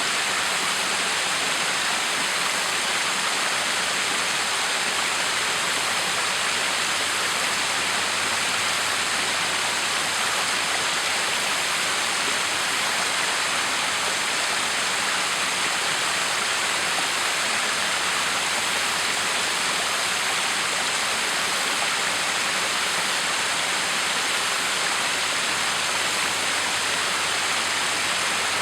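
Backyard waterfall: water pouring and splashing in a steady, even rush that never changes.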